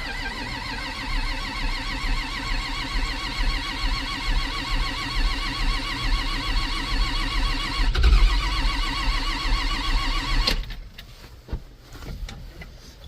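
Diesel tractor engine running steadily, with a wavering whine riding over its low rumble. It cuts off abruptly about ten and a half seconds in, leaving only faint clatter.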